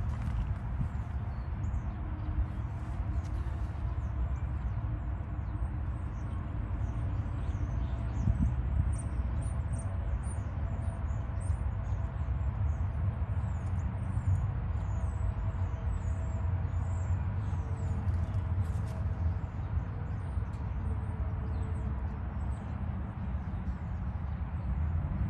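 Small birds chirping, many short high chirps again and again, over a steady low rumble.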